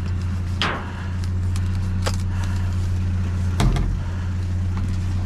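Steady low hum of an idling vehicle engine. Over it come scattered clicks and knocks of items being handled, with a heavier thump about three and a half seconds in.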